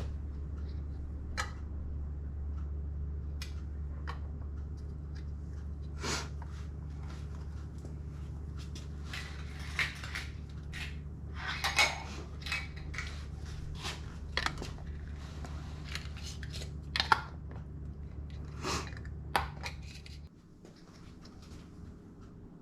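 Metal canning lids and glass canning jars clinking and clicking as lids are set on filled jars, over a steady low hum that cuts off near the end.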